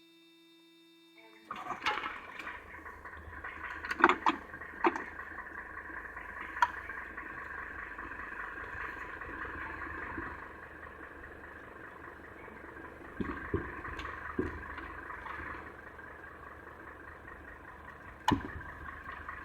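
A car starts about a second and a half in and runs steadily, a low hum under a rushing noise, with several sharp clicks and knocks from inside the cabin.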